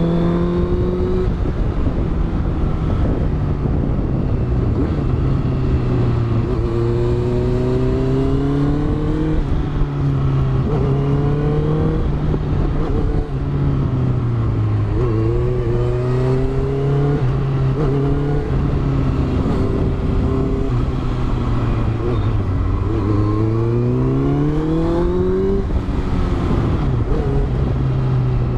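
Honda CBR650F's inline-four engine, with a Yoshimura exhaust, pulling through the gears on a winding road. The pitch climbs repeatedly and drops sharply at each upshift, and it falls away on the overrun before climbing again near the end. Wind rushes steadily underneath.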